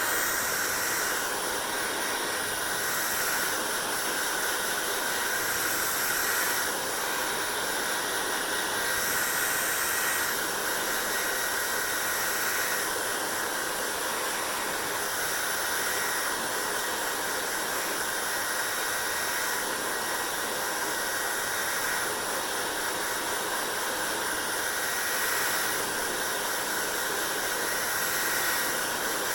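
Hair dryer running steadily: a constant rush of blown air with a thin whine in it. The high hiss shifts now and then, as the airflow changes.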